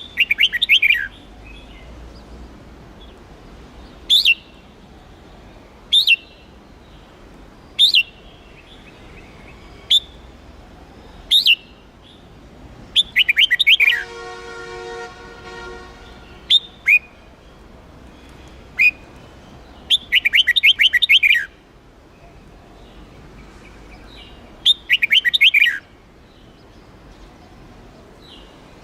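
Red-whiskered bulbul of the Huế type singing: short clear calls every second or two, broken four times by rapid warbling phrases about a second long.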